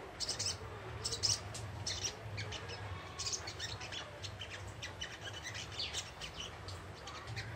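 Young wild-caught sogon, a sunbird, twittering: a rapid, uneven run of short, high chirps.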